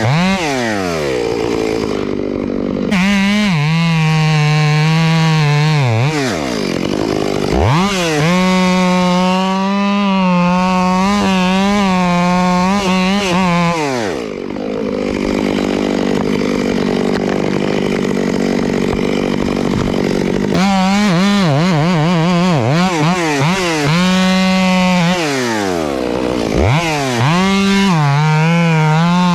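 Chainsaw running in several bursts at high revs, each held for a few seconds, dropping back to idle in between, with the longest idle midway through.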